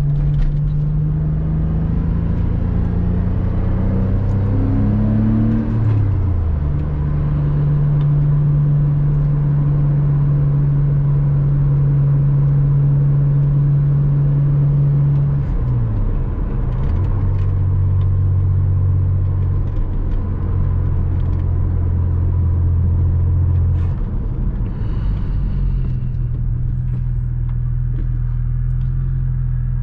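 Porsche Boxster 986 flat-six engine under way, heard from the driver's seat as a steady drone with road rumble. Its pitch climbs and then drops sharply about six seconds in and shifts again around sixteen and twenty-four seconds in, as with gear changes.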